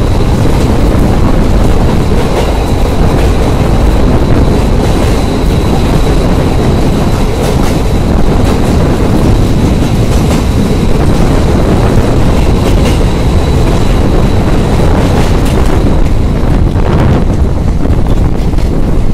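Passenger train running through a long railway tunnel: a loud, steady rumble of wheels on rails, with scattered clicks, heard from the train itself.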